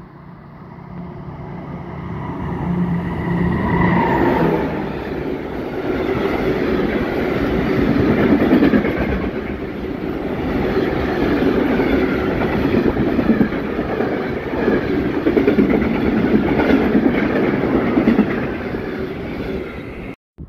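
A freight train of tank wagons hauled by Infraleuna diesel locomotive 1275 012 passing close by. The locomotive's engine hum grows louder over the first few seconds, then the wagons' wheels roll and clatter over the rail joints in a steady loud rumble that cuts off abruptly near the end.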